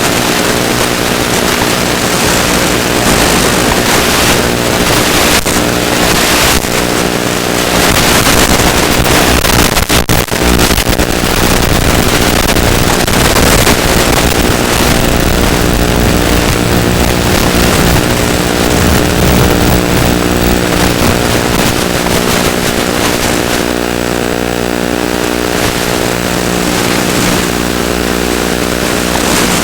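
Small electric motor and propeller of a ZOHD Drift FPV glider running steadily, heard from on board with heavy wind noise over the microphone. The sound dips briefly about ten seconds in.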